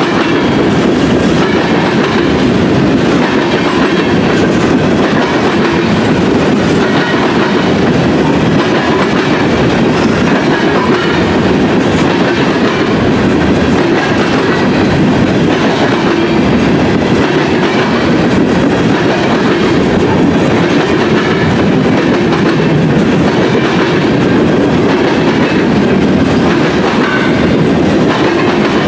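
Freight train of covered hopper cars rolling past, a loud, steady rumble of steel wheels on the rails that goes on without a break.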